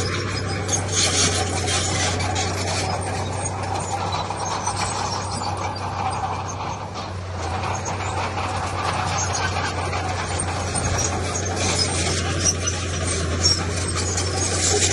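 Heavy diesel earthmoving machinery running steadily, with a constant low engine hum and scattered small clicks and rattles over it.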